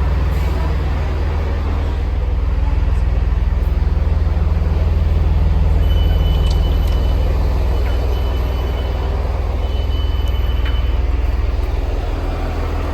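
Chiltern Railways diesel multiple unit standing at the platform with its diesel engine running, a loud steady low rumble. A high electronic beep sounds three times, each about a second long, near the middle.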